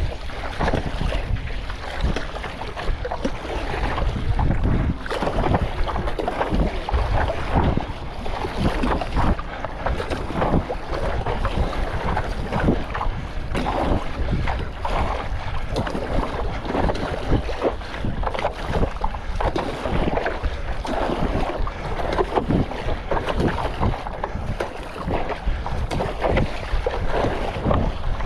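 Strong wind buffeting the microphone, with a heavy low rumble, over choppy seawater slapping and splashing irregularly around a stand-up paddleboard.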